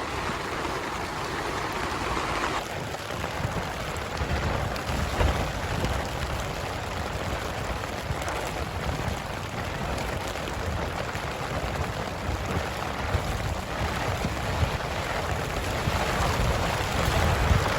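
Heavy rain and gusting wind beating on a tent, with wind buffeting the microphone in low rumbles that swell and ease.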